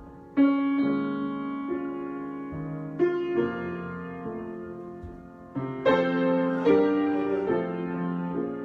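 Slow solo piano improvisation: full chords struck a few seconds apart and left to ring and fade. The brightest chords come in about two thirds of the way through.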